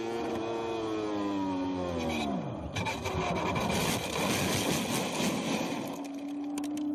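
Racing motorcycle engine at high revs, its pitch falling steadily over about two and a half seconds, followed by a few seconds of rough scraping noise. A steady engine note comes in near the end.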